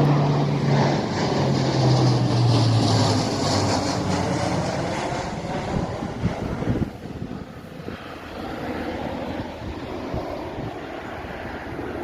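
Lockheed Martin MC-130J Commando II's four turboprop engines and propellers droning as the aircraft flies past, the low propeller tone dropping in pitch over the first few seconds as it goes by, then slowly fading away.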